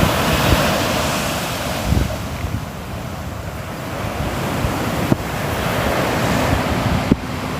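Sea waves breaking and washing in, one swell loud at the start, ebbing about three seconds in and building again toward the end, with wind buffeting the microphone in low thumps.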